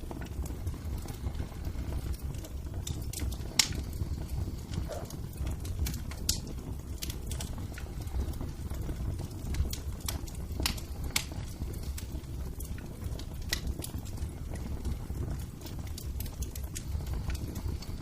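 Wood fire crackling in a fireplace: a steady low rumble of burning under irregular sharp clicks, with a few louder pops scattered through.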